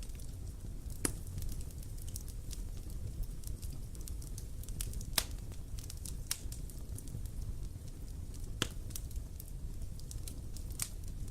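Wood fire burning steadily: irregular sharp crackles and pops of burning wood over a low, continuous rumble of flame.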